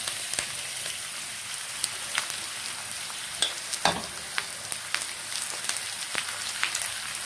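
Masala-marinated liver sizzling in hot oil with fried onions in a nonstick pan, stirred with a wooden spatula: a steady frying hiss with scattered sharp clicks.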